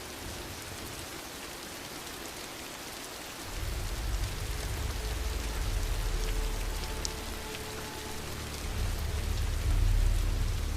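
Steady rain falling and pattering on surfaces. A deep low rumble comes in about three and a half seconds in and swells again near the end.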